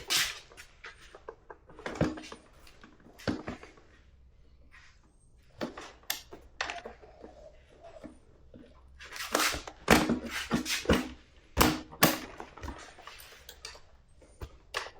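Scattered knocks, clanks and rattles of tools and parts being handled, with a busier run of louder knocks about two-thirds of the way through.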